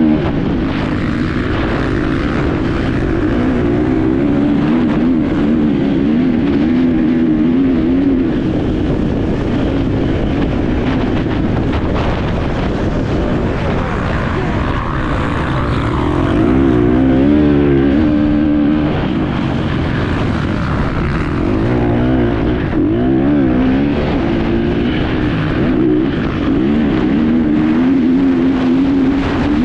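Enduro motorcycle engine heard on board under race riding, its pitch rising and falling constantly as the throttle is opened and closed.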